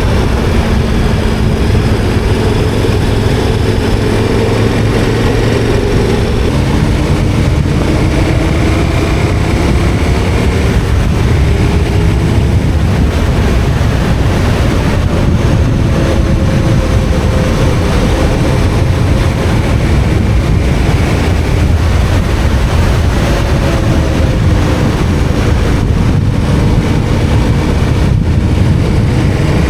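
KTM 1290 Super Adventure R's V-twin engine running under way, its pitch slowly rising and falling with the throttle, over a steady rush of wind and road noise.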